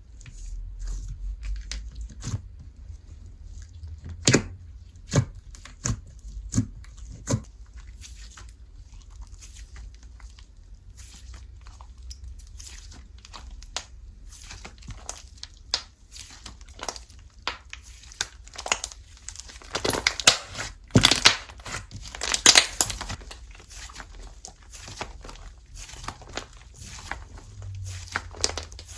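Slime being squished, pressed and stretched by hand, making sharp sticky clicks and pops with crackling. A few separate pops come early on and a dense run of crackling follows about two-thirds of the way through.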